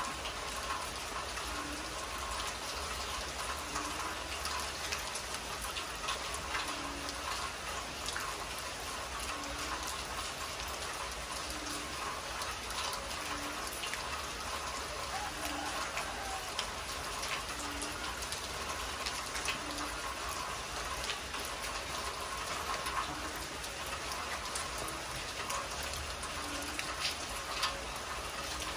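Heavy rain falling on a concrete yard and trees: a steady hiss with a dense patter of individual drops. A faint low note repeats about every second and a half underneath.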